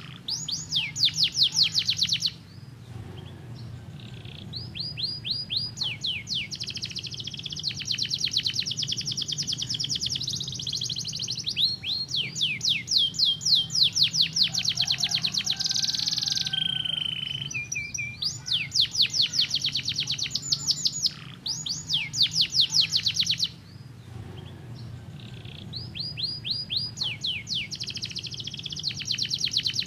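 Domestic canary singing: fast trills of repeated sweeping notes in phrases a few seconds long, broken by short pauses, with a lower held tone in the middle.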